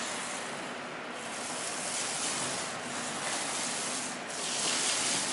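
Steady rough rubbing and scraping of a hand tool worked back and forth over a wall surface, swelling and easing a little as the strokes go.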